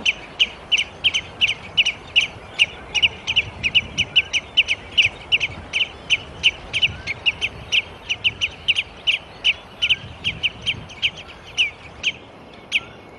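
A bird calling in a fast run of short, sharp chirps, about three a second, which thin out and stop near the end.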